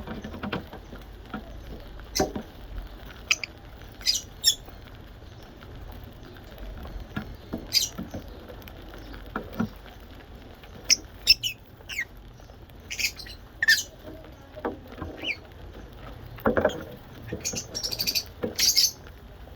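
Small pet parrots giving short, high squeaky chirps at irregular intervals, some in quick clusters near the end.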